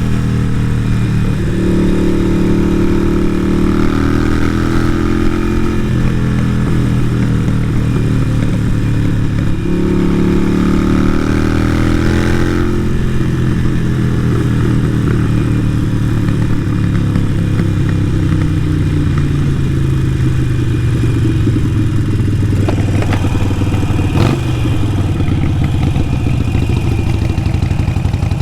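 Harley-Davidson Sportster 883 Iron's air-cooled V-twin through Vance & Hines exhaust pipes, under way: it rises in pitch twice as the bike pulls away through the gears, then winds down in a long falling note as it slows. A single sharp knock near the end.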